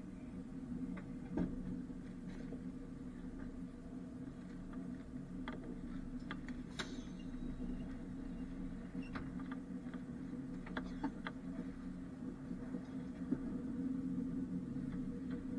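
Inside a passenger train carriage pulling into a station: a steady low running hum, with scattered short clicks and creaks from the carriage.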